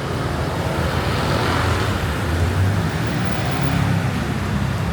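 Steady city traffic noise: a low rumble of vehicle engines and tyres with general street hubbub.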